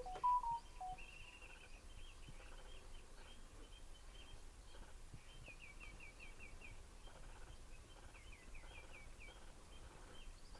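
Faint bird calls: a few short whistled notes in the first second, then a long run of quick, high chirps and trills.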